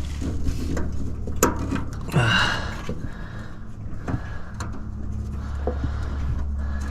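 Scattered clicks and knocks with a short scrape about two seconds in, as a heat pump's defrost sensor is worked loose by hand and with tools, over a low steady hum.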